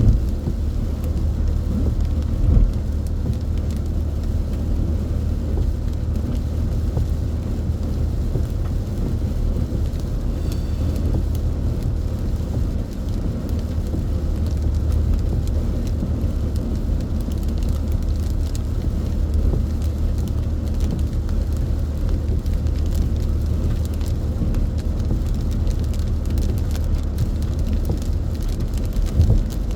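Car travelling at expressway speed in heavy rain: a steady low rumble of engine and tyres on the wet road, with a faint hiss of rain and scattered small ticks over it.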